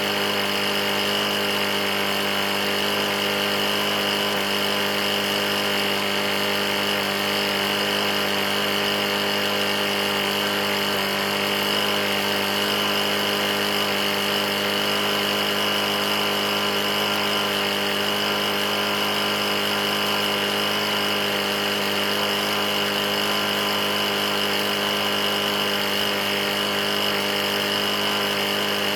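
Briggs & Stratton E450 lawn mower engine running steadily at constant speed, an engine with a bad knock that had been almost out of oil.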